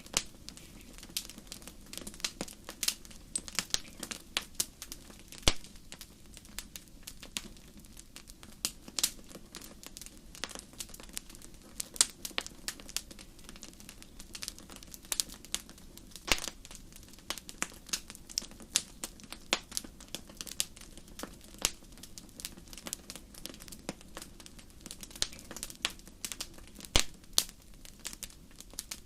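Wood fire burning: irregular sharp crackles and pops, some louder snaps, over a low steady hiss of the flames.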